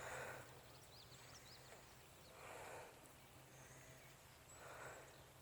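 Near silence: faint outdoor ambience with a few faint high bird chirps and soft rushes of noise about every two seconds.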